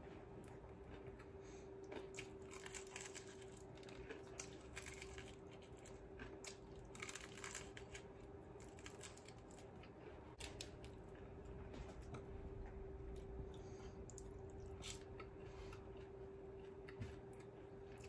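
Close-up mouth sounds of chewing and crunching crispy KFC fried chicken, with irregular crackles as the breading is bitten and torn. A faint steady hum runs underneath.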